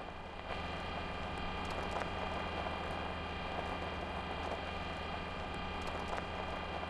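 Steady whirring hum of small helicopter rotors spinning, with a high whine above it; it swells about half a second in and then holds even.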